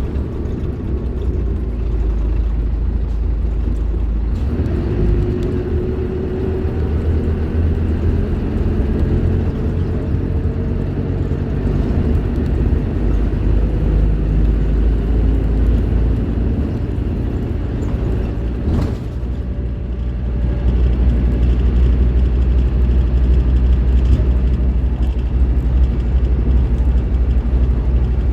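Scania K310IB bus's diesel engine running under load, a 9-litre five-cylinder. About four seconds in the sound dips and then rises in pitch, as after a gear change; near 19 s there is a sharp click, and from about 20 s the engine gets louder as it pulls harder.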